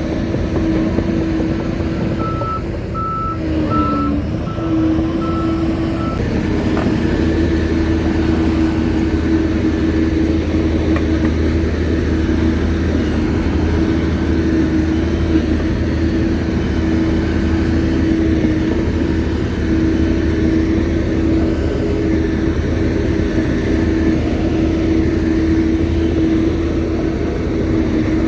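Shantui bulldozer's diesel engine running steadily under work, its pitch dipping briefly about three seconds in. A backup alarm gives a run of about seven evenly spaced beeps, roughly two a second, in the first few seconds as the dozer reverses.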